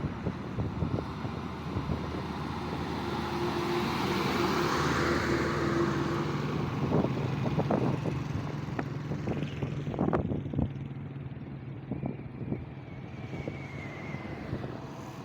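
Road vehicle running, most likely a truck: engine hum with road noise that grows loudest about four to five seconds in, then fades, with a few short knocks later on.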